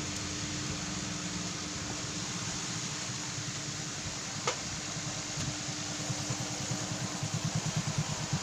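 Steady mechanical hum with one sharp click about halfway through and a fast run of low knocks near the end, from work refitting a motorcycle engine's case half.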